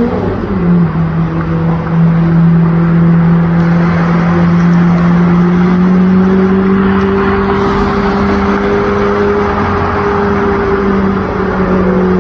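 Lamborghini Murciélago V12 breathing through an IPE exhaust, running at a steady low engine speed: a deep, even drone that dips slightly about half a second in, then slowly climbs in pitch. It cuts off abruptly at the end.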